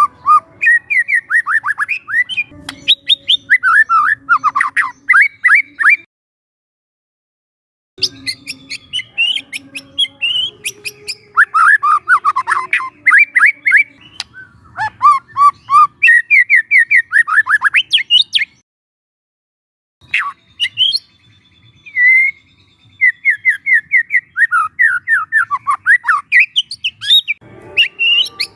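Young white-rumped shama singing in fast runs of short, rapidly repeated chirping notes, with two silent breaks of about two seconds between phrases.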